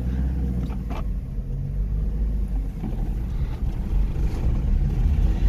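Subaru Sambar minitruck's engine running while driving, a steady low rumble that grows louder near the end as the throttle opens. Under throttle the engine goes raspy, a sound the owner is trying to trace.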